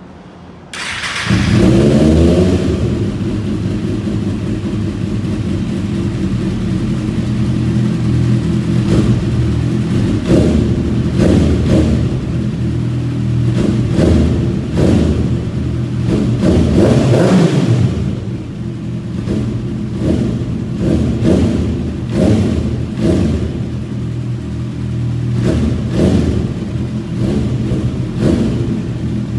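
Kawasaki ZX-6R inline-four with an Arrow aftermarket exhaust, starting about a second in and then idling, with repeated short throttle blips that rev it up and let it fall back.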